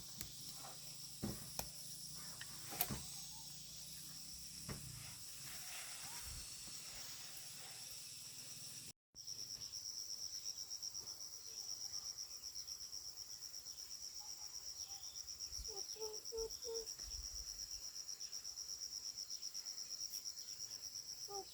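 Chorus of insects trilling, a steady high-pitched buzz that turns into a fast pulsing trill after a short break about nine seconds in. A few sharp knocks in the first five seconds.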